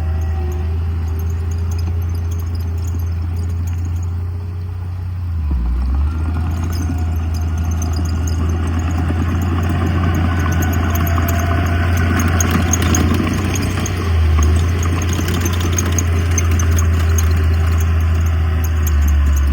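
Diesel engine of heavy earthmoving equipment running steadily, with rattling mechanical noise that grows louder from about six seconds in.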